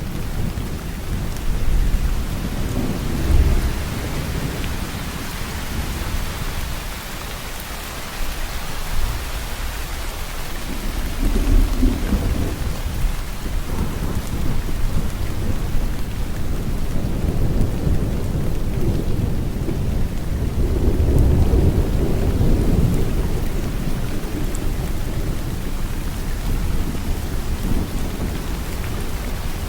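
Steady heavy rainfall with low rolling thunder that swells and fades several times, loudest about three, twelve and twenty-two seconds in.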